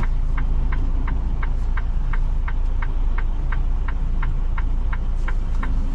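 Inside a semi-truck cab: the diesel engine runs low and steady while a flasher relay ticks evenly, about three ticks a second.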